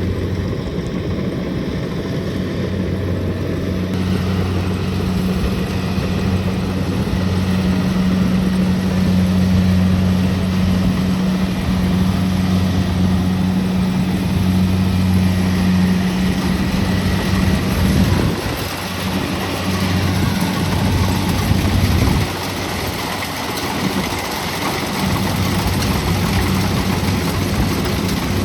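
Kubota DC-70 Plus rice combine harvester's diesel engine running steadily at working speed, a low hum with dense mechanical noise over it, dipping briefly twice about two-thirds of the way through.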